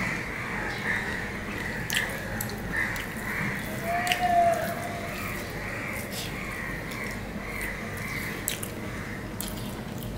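Close-miked wet eating sounds of a person eating rice and fish curry by hand: scattered mouth clicks and smacks while chewing. A brief tone about four seconds in.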